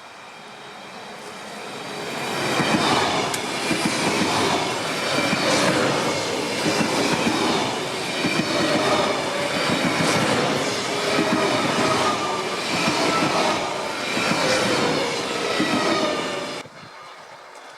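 Passenger train passing close by on rails: it builds up over the first couple of seconds, then runs loud and steady with wavering high squealing tones over the rolling noise, and cuts off suddenly near the end.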